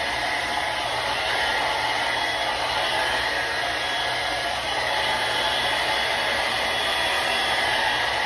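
Remington hair dryer running steadily: a constant rush of blown air with a faint high whine from the motor.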